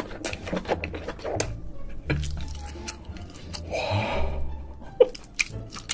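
Close-miked eating of king crab: shell cracking and clicking with wet mouth sounds, the sharpest crack about five seconds in, and a short breathy noise around four seconds in. A low background music bass line runs underneath.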